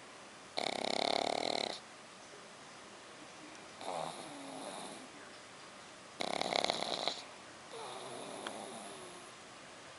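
Black pug puppy snoring loudly in its sleep: two loud snores about five and a half seconds apart, each followed by a softer breath, the heavy snoring typical of a flat-faced breed.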